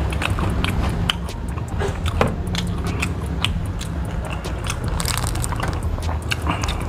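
Close-up chewing and lip-smacking of a man eating fried chicken and rice by hand, a dense run of small wet mouth clicks, over a steady low hum.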